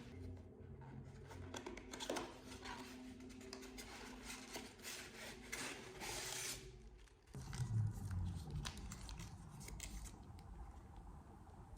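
Faint household handling sounds: rustling, rubbing and light clicks of things being worked by hand, over a low steady hum. About seven seconds in the sound cuts and changes abruptly, with a brief low thud just after.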